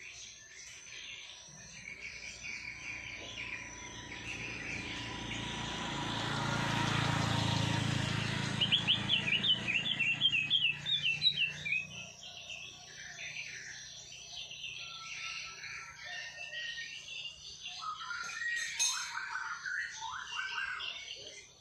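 Several small songbirds chirping and singing, with a quick run of rapid trilled notes about halfway through and more song phrases near the end. A broad swell of noise with a low hum builds and fades across the first half.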